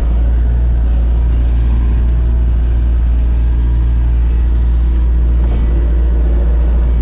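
Bobcat skid steer loader's diesel engine running steadily under work, a constant low drone while pushing snow with the bucket.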